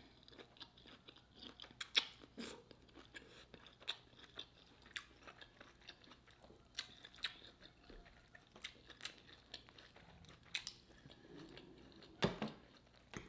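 Close-miked chewing of a shrimp, sausage and cabbage stir fry: soft wet chewing broken by many short crunches and mouth clicks, with one louder click near the end.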